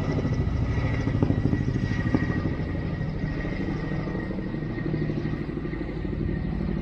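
Firefighting helicopter's rotor and engine: a steady low rumble with rapid pulsing and a faint steady high whine over it.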